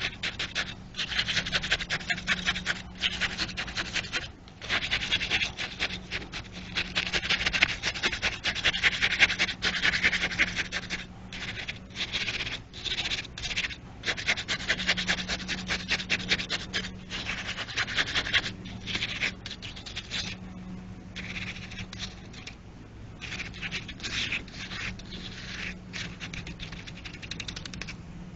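Concrete mix being mixed: gritty scraping in long bursts with short pauses between them, over a steady low hum.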